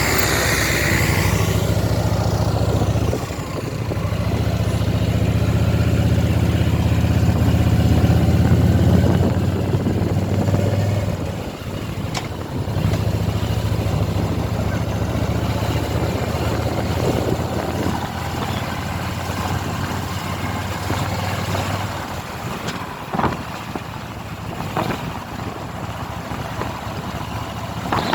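Motorcycle engine running under way, with a steady low drone that briefly drops about 3 s and 12 s in, as if the throttle is eased off or a gear is changed. After about 22 s it runs quieter, with a few sharp knocks.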